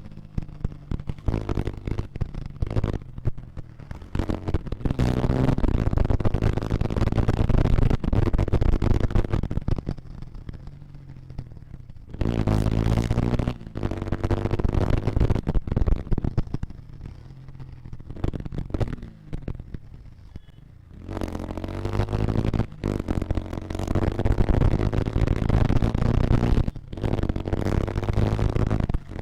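Bajaj Pulsar motorcycle's single-cylinder engine running as the bike is ridden. The engine note rises with acceleration about twelve seconds in and again about twenty-one seconds in, and eases off between.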